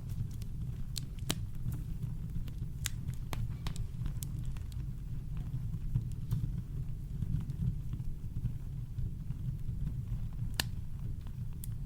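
Campfire crackling: scattered sharp pops and snaps, irregular and a second or so apart, over a steady low brown-noise rumble.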